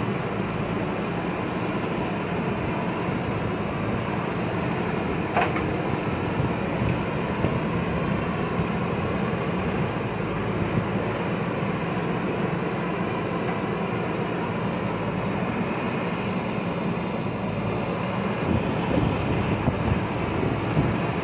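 JCB backhoe loader's diesel engine running steadily under digging load, with a brief sharp sound about five seconds in and a few short louder moments.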